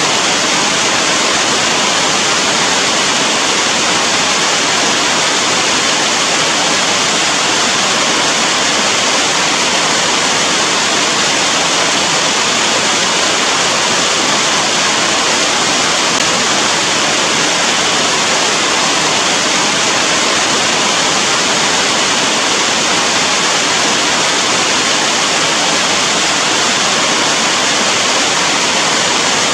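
Steady rain falling: a dense, even hiss with no single drops, splashes or thunder standing out.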